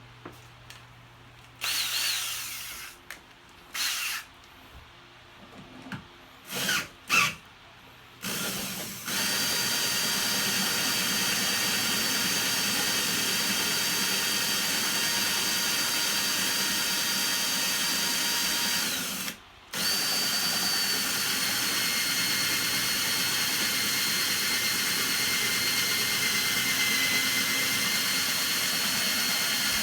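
Electric power-tool motor switched on in a few short bursts, then running steadily with a high whine for about ten seconds, stopping briefly, and running steadily again to the end.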